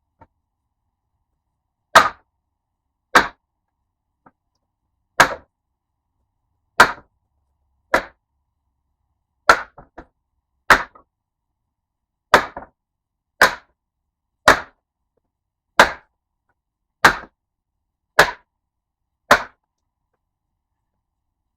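Sharp blows of a tool striking wood, about fourteen strikes roughly a second apart with silence between them: pallet wood being chopped up for firewood.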